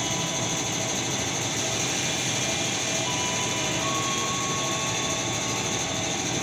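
KRL Commuter Line electric train running at the station: a steady rushing rumble with a high whine that comes and goes.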